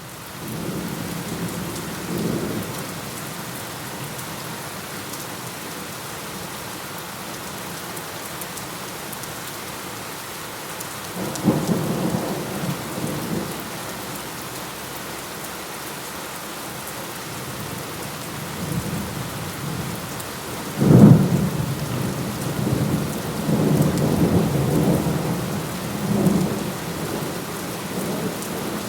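Steady rain with thunder. Rumbles come about two seconds in and again around twelve seconds, then a sharp, loud thunderclap about twenty-one seconds in rolls on for several seconds.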